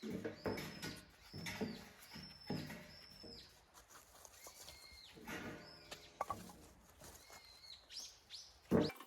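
Wild birds calling repeatedly: a series of short, harsh calls with curving whistled notes, coming every second or so. A single sharp knock near the end.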